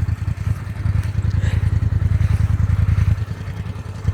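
Engine of a vehicle stuck on ice, running under throttle as the driver tries to drive out with its tires spinning; the engine gets louder about a second in.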